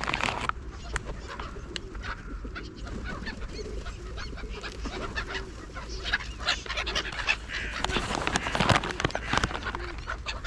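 Wild birds calling repeatedly in short, irregular calls, busier in the second half.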